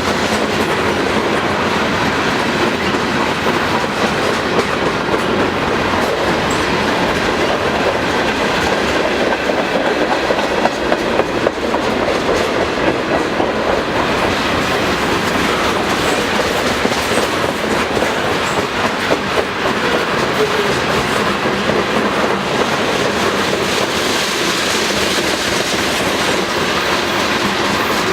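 Freight cars of a long manifest train rolling past close by: a steady rumble of steel wheels on rail, full of rapid clicking and clacking.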